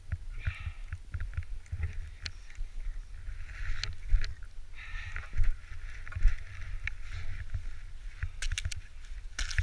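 Wind buffeting the microphone as a low, uneven rumble, with patches of rustling and scattered sharp clicks.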